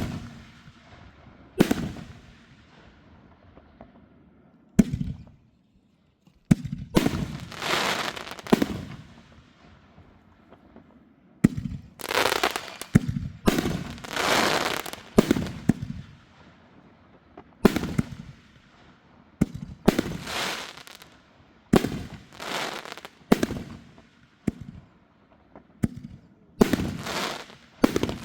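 Backyard consumer fireworks going off: a string of sharp bangs, each trailing off into a second or two of crackling hiss, coming in quick clusters with short pauses between them.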